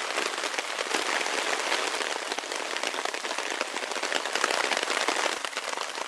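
Heavy rain falling on a hammock tarp shelter overhead: a dense, steady patter of countless drops.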